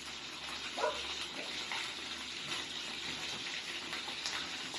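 Small fish deep-frying in hot oil: a steady sizzling hiss with faint scattered crackles.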